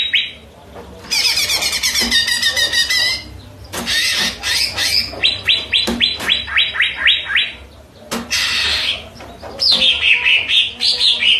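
Greater green leafbird (cucak ijo) singing in varied phrases: high trills, a run of repeated sharp notes at about five a second, and rising and falling whistled sweeps near the end.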